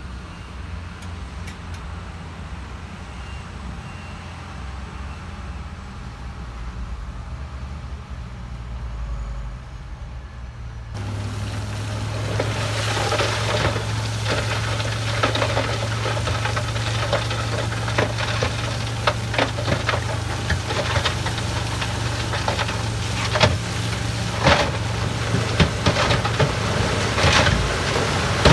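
Diesel engine of heavy earthmoving machinery running with a steady low hum. About eleven seconds in, the sound jumps to a louder, closer engine note with frequent sharp metallic clanks and clicks.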